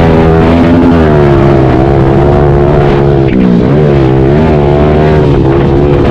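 Small pit bike engine at full race throttle, its revs rising and falling as the rider works the throttle and gears, with a dip and climb back about halfway through.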